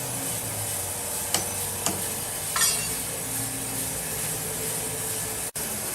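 Steady hum of sawmill machinery with two sharp knocks a little over a second in and a ringing metallic clink about two and a half seconds in.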